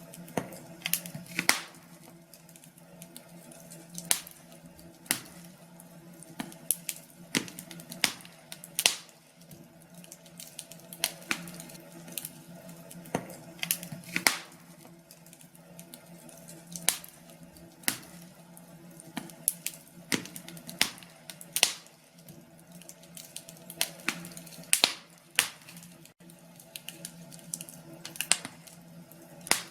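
Wood fire crackling in a fireplace: irregular sharp pops and snaps, roughly one or two a second, over a faint steady hum.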